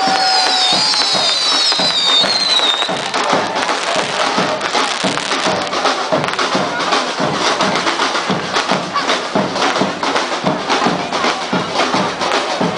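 Fireworks crackling and popping densely, with several whistles falling in pitch in the first three seconds, over music.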